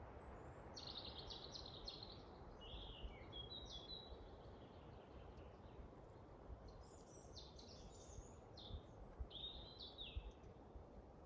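Songbirds singing in a forest: short phrases of quick high chirps and trills in two spells, over a faint steady wind noise.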